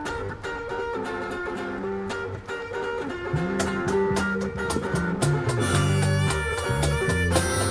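Instrumental intro of a pop/rock song: a plucked guitar melody, with a bass line coming in about three seconds in and the band filling out and getting a little louder near the end.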